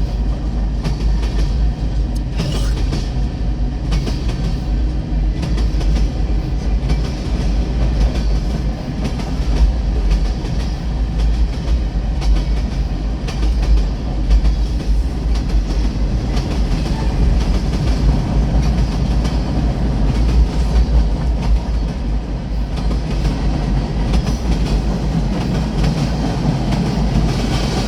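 Freight train cars passing close at speed, wheels clacking rhythmically over the rail joints over a steady, loud rumble.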